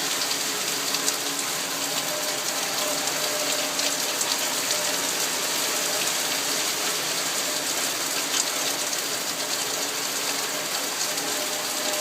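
Heavy tropical-storm rain pouring down: a steady hiss with scattered drops ticking against surfaces.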